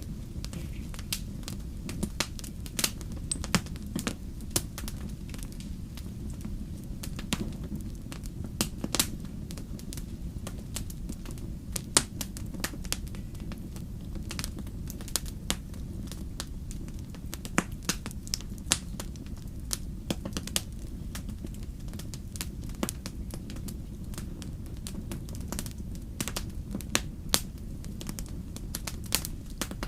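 Wood campfire crackling, with irregular sharp pops and snaps several times a second over a steady deep rumble.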